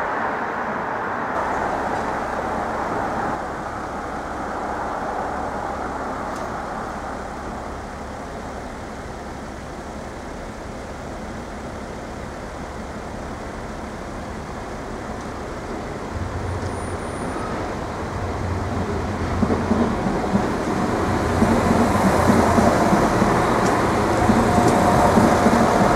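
Irish Rail 22000 class diesel multiple unit approaching and running through a level crossing. A low engine drone and train noise build up over the second half and are loudest near the end, over steady background noise.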